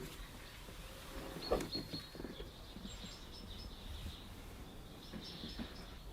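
Faint bird chirps, short high notes scattered through a quiet background, with a soft knock about a second and a half in.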